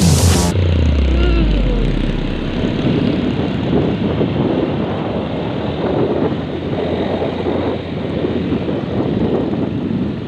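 Motorcycle riding on the road: engine running with wind buffeting the microphone, a dense fluttering rumble. A low tone slides down in pitch during the first second or two.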